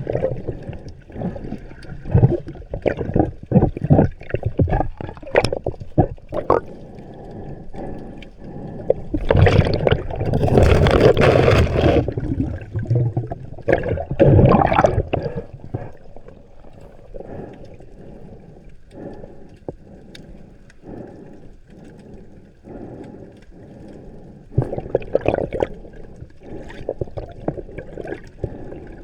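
Sea water gurgling and sloshing as picked up underwater, with irregular knocks. A loud rush of bubbles lasts about two and a half seconds near the middle, with a shorter rush soon after and another near the end.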